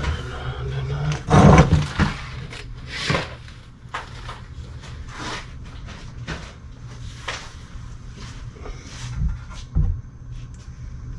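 Tools and parts being handled and set down during a transmission teardown, over a steady low hum. There is a loud clatter about a second and a half in, then a scattering of separate knocks and clacks.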